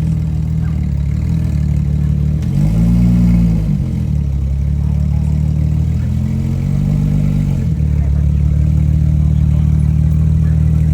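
Porsche GT3's flat-six engine idling through its exhaust, revved twice briefly: about two and a half seconds in and again about six seconds in, the pitch rising and settling back to idle each time.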